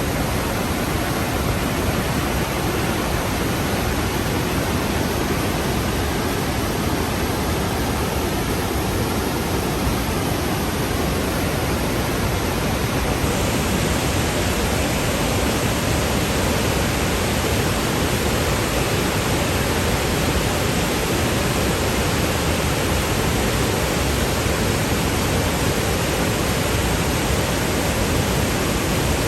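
The Rhine Falls, a large, powerful waterfall, rushing loudly and steadily, so loud that it drowns out speech.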